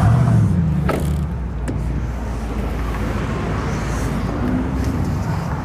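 Car engine idling with a steady low rumble, briefly louder at the start, with one sharp click about a second in.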